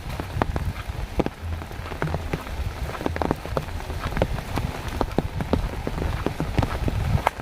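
Rain falling, with many sharp, irregular drops striking close by over a steady hiss.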